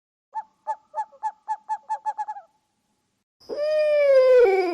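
Owl hooting: a run of short hoots that come quicker and quicker, then after a short pause a longer drawn-out call that slides down in pitch, with a thin high steady tone beside it.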